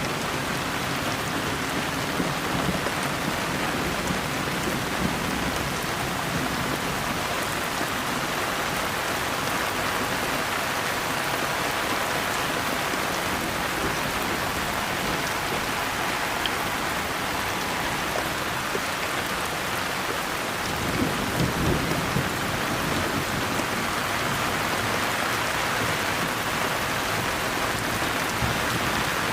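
Steady rain falling, with low rumbles of thunder in the first few seconds and a louder one about two-thirds of the way through.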